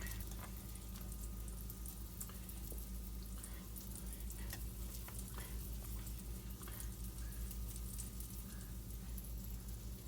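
Blueberry pancake batter sizzling faintly in a hot frying pan, with scattered small crackles over a steady low hum.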